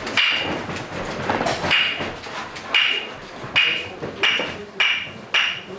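Kabuki hyoshigi, a pair of wooden clappers, struck in a series of sharp, ringing claps that start about a second apart and speed up steadily: the accelerating clap that signals the curtain opening at the start of a kabuki scene.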